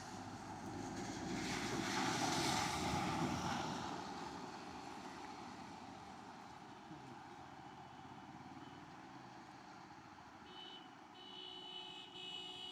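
A vehicle passing by, rising and fading over about three seconds, then a faint steady background. Near the end come a few short high-pitched tones.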